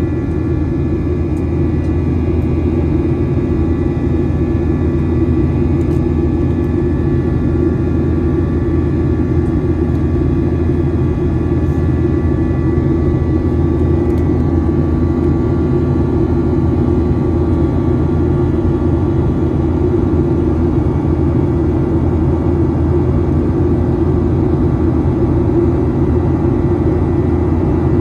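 Boeing 737 jet engines running with a steady, loud, low roar, with faint steady whining tones above the rumble; the level creeps up slightly over the first few seconds and then holds.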